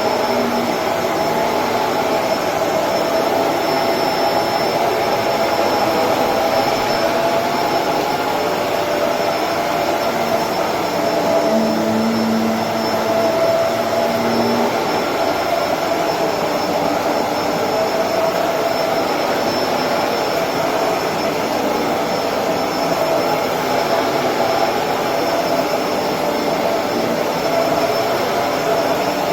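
Electrolux Precision bagless upright vacuum cleaner running steadily as it cleans a rug, a constant motor whine over the rush of air, with a brief low hum added about halfway through.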